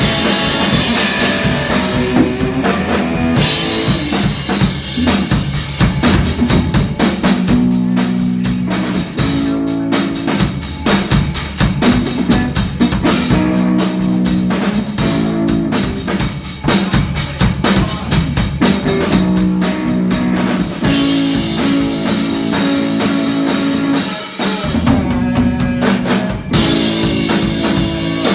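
Live rock band playing, the drum kit loud and driving under held low bass notes; the high end cuts out briefly about three seconds in and again near the end.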